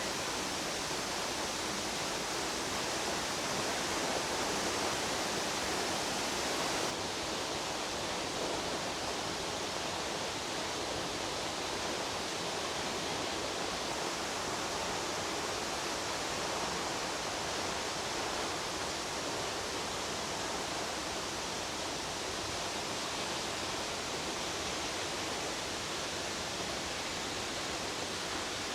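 Jeongbang Falls, a coastal waterfall, pouring steadily: a dense, even rush of falling water.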